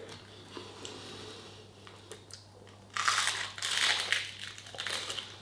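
Someone biting into and chewing a crunchy breaded garlic mushroom. From about three seconds in there are irregular crisp crunches.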